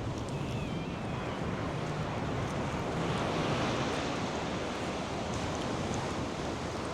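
North Sea surf washing steadily onto the sandy beach, swelling a little about halfway through, with some wind.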